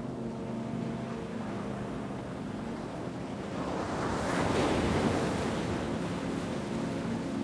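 Ocean wave surging in, swelling to a peak about halfway through and then easing off, over a soft sustained musical drone of held low tones.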